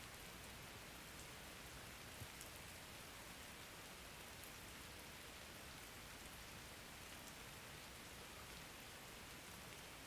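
Faint, steady rain falling, an even hiss with scattered small drop ticks.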